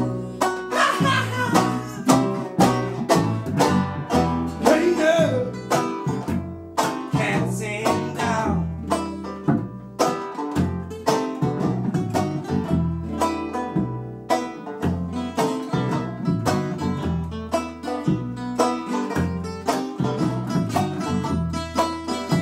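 Acoustic string band playing an instrumental break in a bluegrass-style song: rapid banjo picking over guitar and low bass notes, with a bending melodic lead in the first half.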